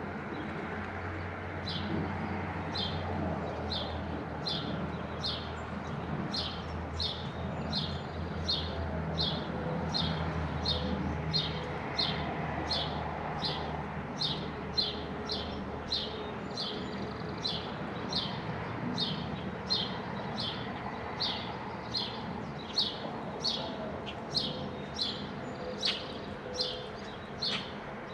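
A bird chirping over and over, short high notes at about two a second, beginning about two seconds in, over a steady low hum.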